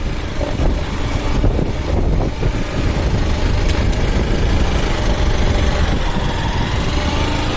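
Motorcycle running while being ridden, with a steady heavy low rumble.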